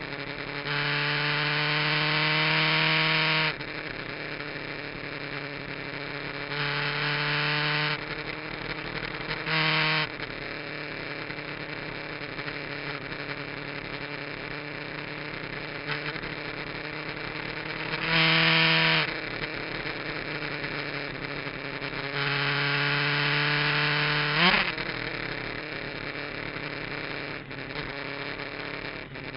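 Kawasaki GPZ900R's inline-four engine on a circuit lap: a steady drone broken five times by louder stretches of acceleration in which the revs climb, the last ending in a quick sharp rev rise near the end.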